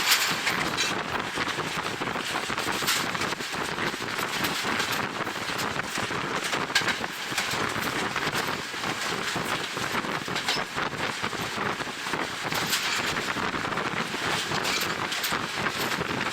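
Wind buffeting the microphone beside a moving train's open window, over the steady running noise of the train, with scattered short clicks and knocks.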